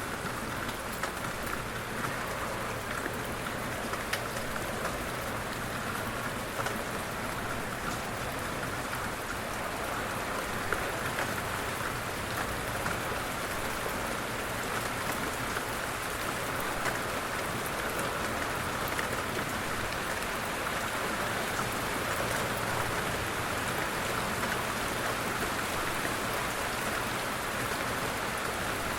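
Steady light rain falling, an even hiss with scattered individual drops ticking on a surface, growing slightly louder over the stretch.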